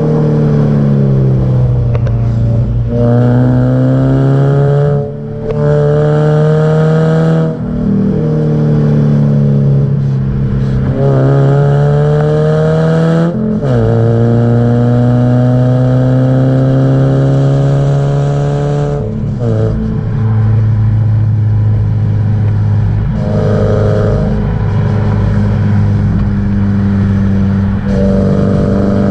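Subaru Impreza 1.5R's flat-four engine and exhaust under way, pulling up through the revs and dropping back several times as the car works through its gears, then holding a steady note at cruise for the last several seconds.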